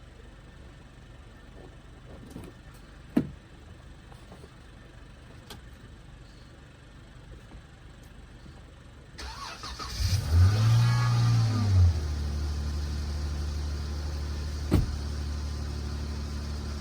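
A truck engine is cranked and starts about ten seconds in, runs briefly at a high rev, then drops to a steady idle. A few knocks come before it, and one sharp click near the end.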